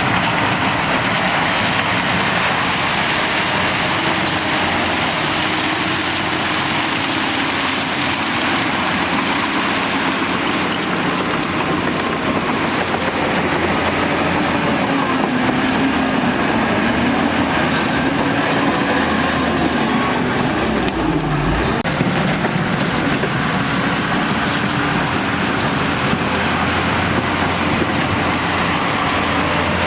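Shantui bulldozer's diesel engine running steadily under working load, its pitch rising and falling a little as it works.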